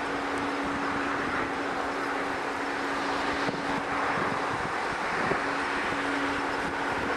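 Strong wind rushing over the microphone, with a steady low hum underneath that drops out briefly about five seconds in.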